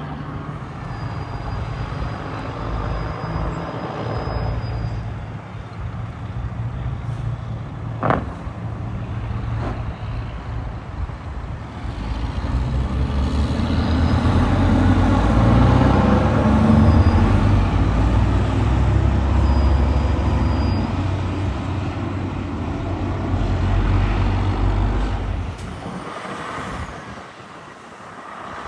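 Road traffic passing, led by a heavy truck's engine rumble that grows louder through the middle and fades away near the end.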